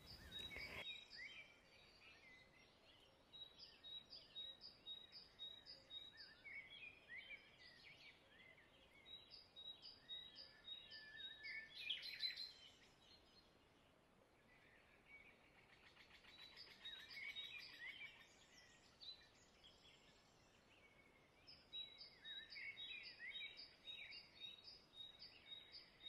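Faint outdoor birdsong: runs of repeated short, high chirping notes, about two or three a second, with other chirps and whistles mixed in, coming and going in several spells with near-quiet gaps between.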